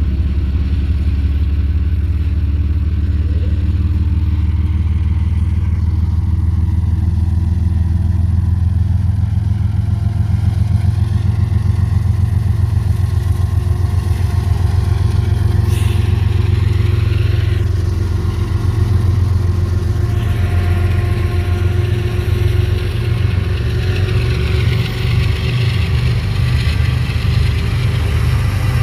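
Diesel-electric freight locomotive engines running loud and steady with a deep, pulsing rumble. The engine note shifts about two-thirds of the way through.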